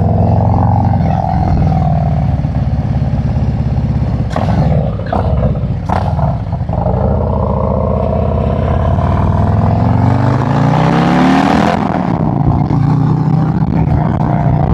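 Harley-Davidson V-twin motorcycle engine running under way, with a few sharp knocks about four to six seconds in. The engine pitch then climbs as it accelerates, with a rush of wind noise that cuts off suddenly about twelve seconds in before it settles into a steady run.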